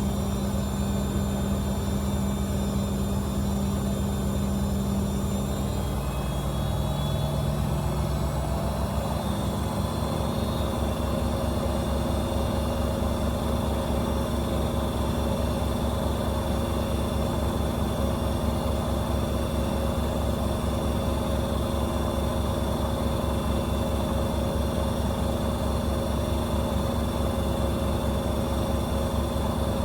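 AEG Öko-Lavamat 74780 washing machine spinning, its motor whining steadily. About seven seconds in the pitch shifts and climbs a little, then holds steady with a fast, even pulse of the spinning drum beneath.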